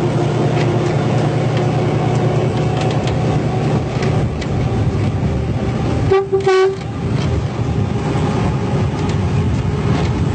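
Train running with a steady rumble, and one short blast of the train horn, just over half a second long, about six seconds in.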